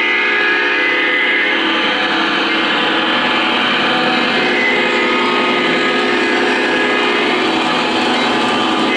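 O gauge model train running along three-rail track: a steady mix of wheel and motor noise with several held tones on top, at an even level.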